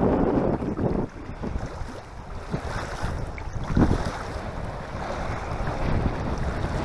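Wind buffeting the microphone in gusts, heavy for the first second, easing, then gusting again near the four-second mark.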